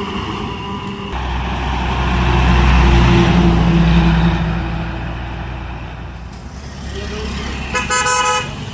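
A heavy truck's diesel engine rumbles past, swelling to its loudest about three seconds in, then fading away. Near the end a vehicle horn gives one short blast.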